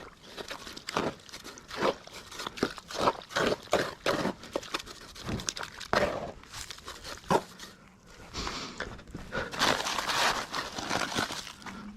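Irregular scraping and knocking of hand tools on cement: a run of short scuffs and taps, with a denser rasping scrape over the last few seconds.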